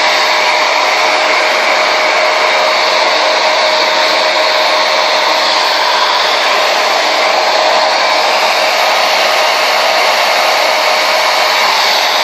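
Conair Yellow Bird 1875-watt blow dryer running steadily on high: a loud, even rush of air with a faint steady whine from its motor.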